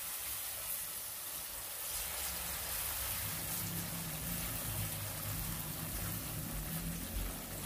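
Thick curry sauce with chicken sizzling steadily in a frying pan over a low flame, with soft stirring from a silicone spatula.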